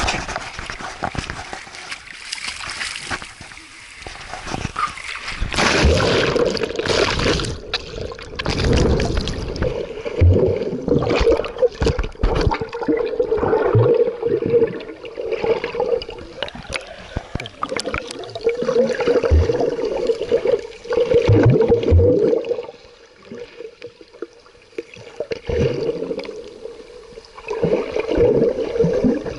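Sea water splashing and gurgling around a swimming child, coming in irregular surges.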